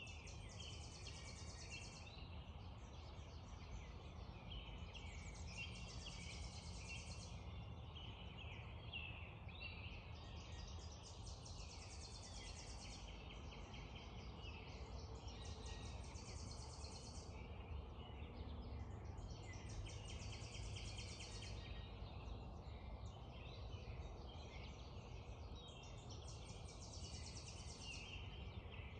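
Dawn chorus of songbirds over a steady low rush of background noise. One bird repeats a high, buzzy trill about every five seconds, each about two seconds long.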